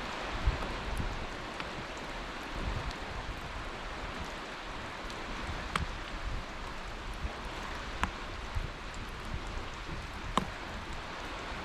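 Steady hissing outdoor ambience of a snowy beach, with low gusts of wind buffeting the microphone and a few sharp ticks.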